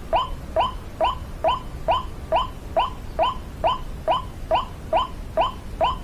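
White-breasted waterhen calling: a short note that slides upward, repeated evenly a little over two times a second without a break.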